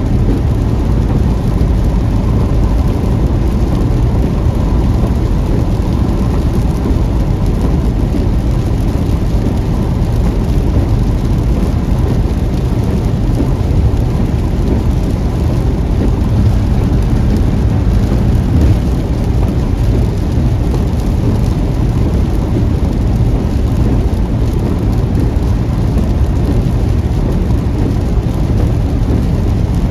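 Car driving through a heavy rainstorm: a steady, loud low rumble of road and engine noise mixed with the hiss of rain, with no single thunderclap standing out.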